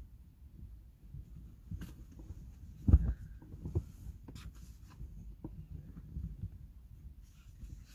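Knocks, clicks and handling noises of gear being unfolded and fitted inside a small car, with one loud thump about three seconds in, over a low rumble.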